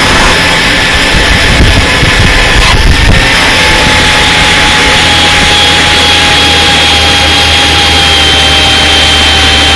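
Power grinder spinning a wheel against a painted metal sign, grinding the old paint off, with a steady motor whine over the loud grinding noise.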